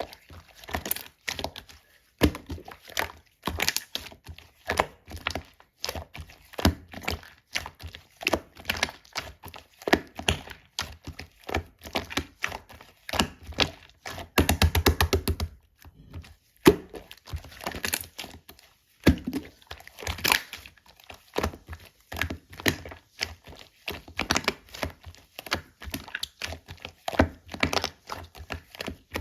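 Two-layer slime being squeezed and poked by hand, giving a constant run of sticky pops and clicks. About halfway through comes a stretch of fast, even clicking.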